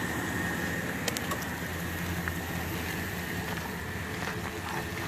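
A vehicle engine idling steadily, with a few faint clicks about a second in.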